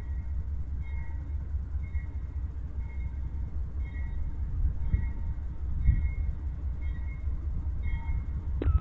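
Train approaching with a steady low rumble, and a faint ding repeating about once a second.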